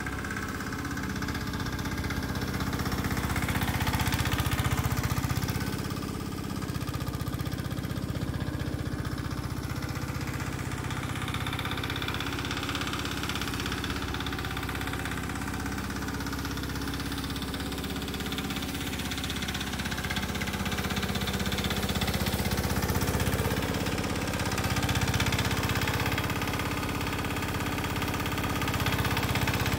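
Petter AC1Z single-cylinder diesel engine on a 1948 Gibson Model D tractor running steadily, growing a little louder a few seconds in and again near the end.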